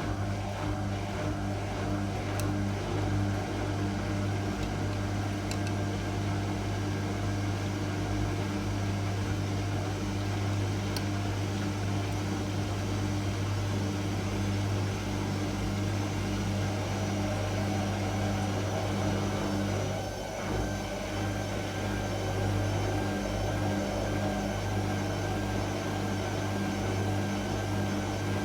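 Whirlpool Indiana 1400 washing machine running with a steady motor hum, dipping briefly about twenty seconds in.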